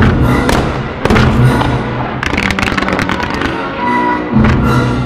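Fireworks going off over music, with sharp bursts at the start, about a second in and near the end, and a dense run of quick crackling reports between about two and three seconds in.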